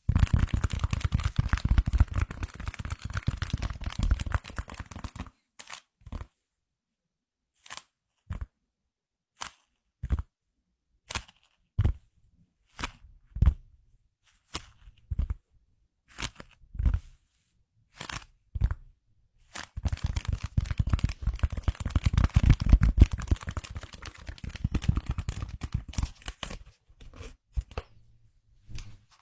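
Close-up crinkling and tearing-like crackle from an object being handled, in two long stretches, with single sharp taps and clicks scattered between them.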